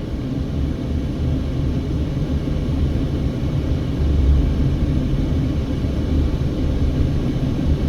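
Steady low rumble of a car driving at low speed: engine and tyre noise heard from inside the cabin.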